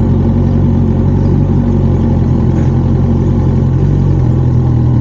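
Motorcycle engine running steadily while the bike is ridden, its low note shifting slightly about four seconds in.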